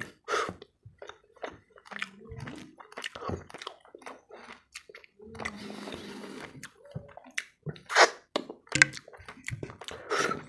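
Close-miked wet chewing and lip smacks of a mouthful of soft rice and boiled masoor dal, with fingers sucked clean. There is a stretch of fingers wiping across the plate midway, and two loud smacks near the end.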